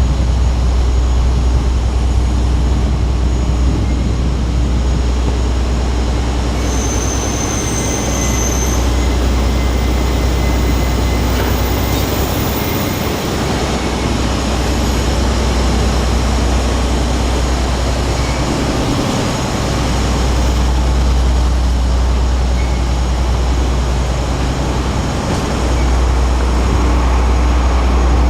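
Train at a station platform, a loud steady low rumble with rail noise, and a short thin high whine about a quarter of the way in.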